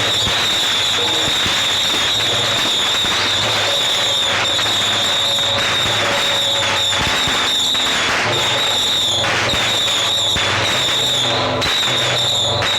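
Strings of firecrackers going off in a dense, unbroken crackle of rapid bangs, loud throughout.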